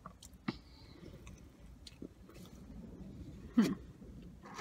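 Close-up chewing of a mouthful of burger, with small wet mouth clicks, and one brief louder sound about three and a half seconds in.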